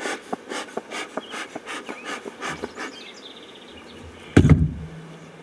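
Honeybees buzzing around an open hive, with a run of short clicks and knocks over the first three seconds and one loud thump about four and a half seconds in.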